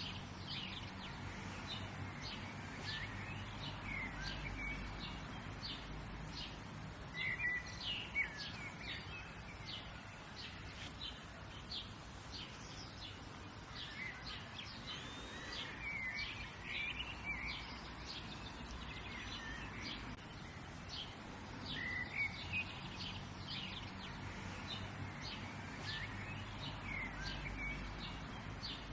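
Several birds chirping and calling, many short high chirps and whistles in quick succession, over a steady low background hum.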